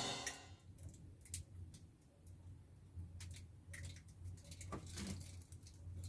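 Faint room tone: a low steady hum with scattered small clicks and taps, just after music fades out at the very start.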